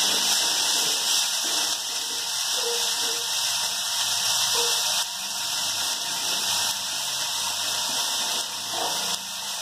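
Chopped mint leaves frying in hot oil in a steel kadai, a steady sizzling hiss, with a steel ladle stirring briefly at the start.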